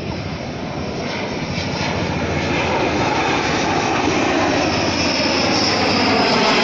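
Dassault Rafale fighter jet coming in to land, the roar of its jet engines growing steadily louder as it approaches, with a slowly sweeping, phasing hiss.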